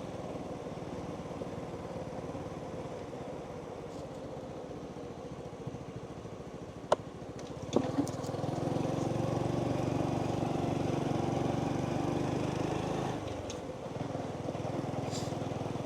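Motorbike engine running steadily while riding, with a couple of sharp clicks a little before the middle, then the engine louder for several seconds as it pulls harder before easing off.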